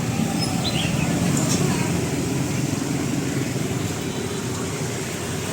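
Busy street market ambience: a steady rumble of road traffic with the voices of people talking in the background.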